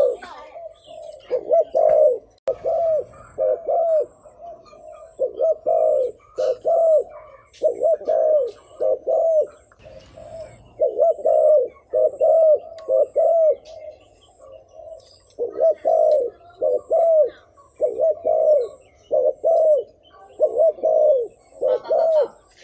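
Spotted dove cooing: quick runs of short, low coos, repeated over and over with only brief pauses between runs.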